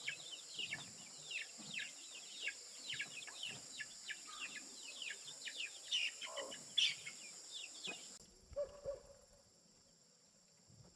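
Birds chirping: many short, downward-sliding chirps, several a second, over a steady high drone. Both stop abruptly about eight seconds in, and a couple of lower calls follow.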